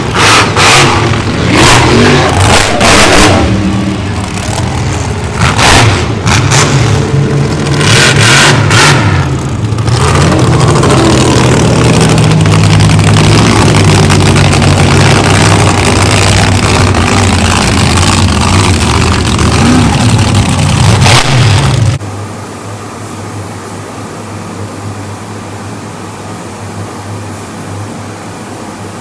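A motor vehicle's engine revving hard under load, with sharp bursts of noise over it in the first ten seconds. About 22 seconds in, the sound cuts abruptly to a much quieter, steady engine sound.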